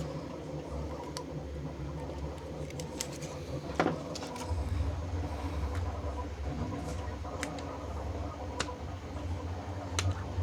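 Scattered small ticks and scratches of heat transfer vinyl being weeded by hand, the scrap peeled off the backing, over a steady low hum that grows louder about halfway through.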